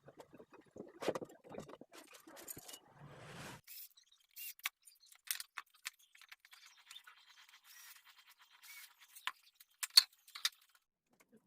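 Scattered light clicks, taps and scrapes from hand work with materials and tools, with a sharper click about ten seconds in.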